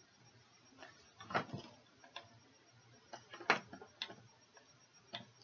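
A scatter of short, light taps and knocks in a small room, irregularly spaced, the sharpest about a second and a half in and again about three and a half seconds in, as someone moves about trying to swat a fly.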